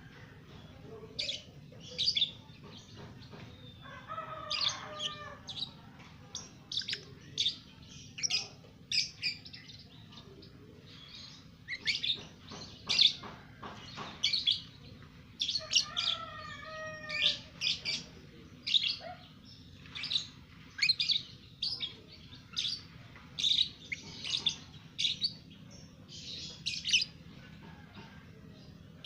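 Young lovebird giving short, sharp, high chirps, one or two a second at irregular intervals, with a lower wavering call twice.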